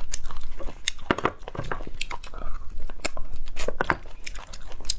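Close-miked chewing and biting while eating beef bone marrow: irregular wet clicks and smacks from the mouth, several a second.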